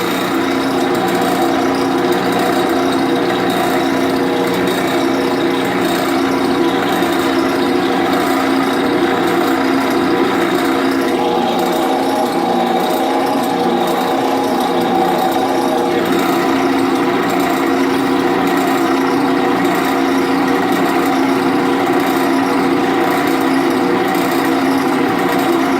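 Drill press running steadily while its bit drills a pilot hole into a broken-off screw, the hole for a screw extractor. A harsher stretch of cutting hiss comes in about eleven seconds in and eases off about five seconds later.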